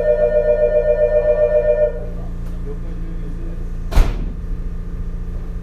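An electronic warning bell ringing in rapid two-note pulses, cutting off abruptly about two seconds in, over the steady low hum of a railcar. About two seconds later comes a single sharp thump.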